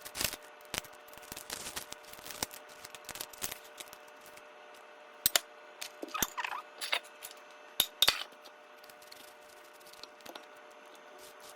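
Irregular light clicks and taps of a kitchen knife on a cutting board as an onion is cut, with a few sharper knocks in the middle, over a faint steady hum.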